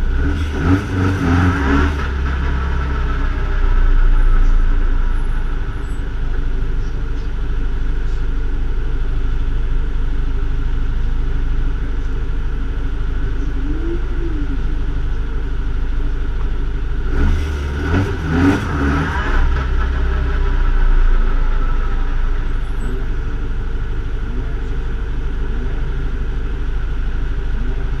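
BMW 2002 ti race car's four-cylinder engine idling while the car waits on the grid, blipped to higher revs in short bursts near the start and again about two-thirds of the way through.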